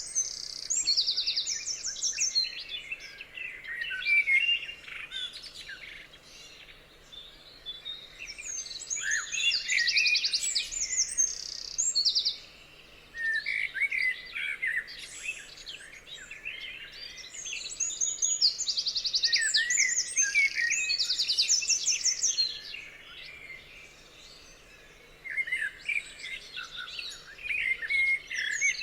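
Songbirds singing, with overlapping chirps and fast, high trilled phrases that come in bursts every few seconds, broken by short lulls.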